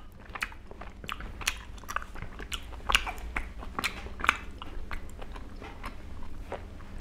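A person chewing soft, saucy Korean rice cakes (tteokbokki), with a steady run of short wet mouth clicks and lip smacks.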